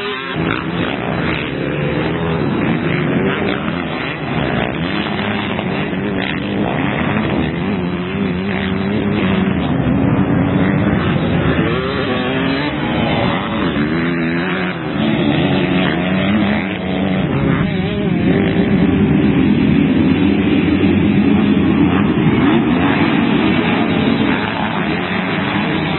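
Several motocross bikes racing, their engines revving up and down as riders work the throttle.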